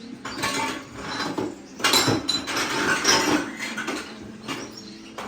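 Irregular clinking and rattling, loudest in the middle, with a few brief high chirps from the caged canaries and finches.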